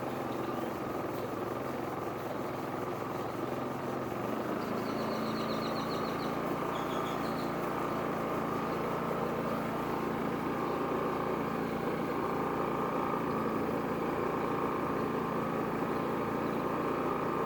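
Champion 4650 inverter generator running steadily, then about four and a half seconds in its engine steps up to a higher speed and runs a little louder as it is switched out of eco mode.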